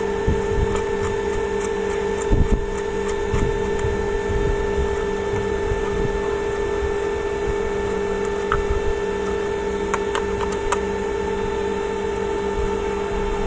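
A steady hum runs throughout, with scattered small clicks and taps from parts of a steam iron being handled as it is taken apart.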